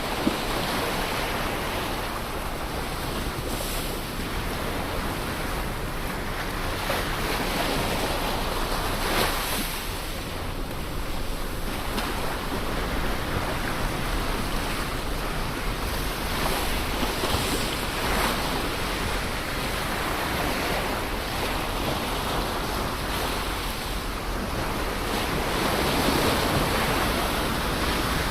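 Ocean waves breaking and washing on the shore, a continuous rushing surf that swells and ebbs every few seconds.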